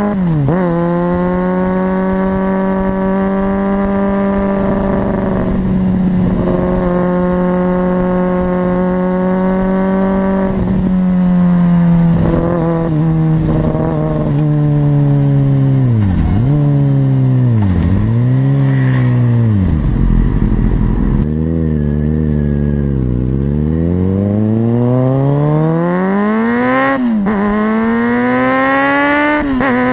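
Kawasaki Ninja ZX-6R inline-four engine through a Leo Vince exhaust with the dB-eater removed. The note holds steady at high revs, then drops with several sharp dips in pitch and settles low for a few seconds. It then climbs steadily, with two brief drops near the end as on gear changes.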